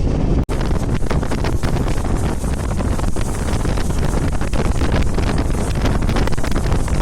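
Wind buffeting the microphone over the steady running noise of a moving passenger train, a loud continuous rush that cuts out for an instant about half a second in.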